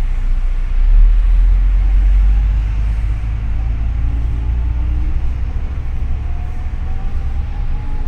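Double-decker city bus's engine and drivetrain rumbling deep and steady inside the cabin. A faint whine rises slowly in pitch over the last few seconds as the bus gathers speed.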